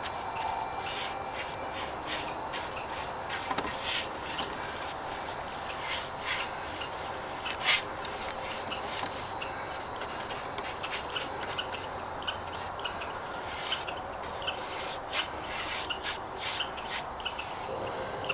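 Wooden fence boards being handled and laid out: wood rubbing and scraping, with irregular light clicks and knocks over a steady hiss.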